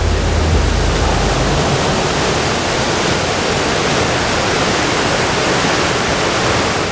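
Waterfall rushing: a loud, steady wash of falling water. A deep low rumble underneath stops about a second and a half in.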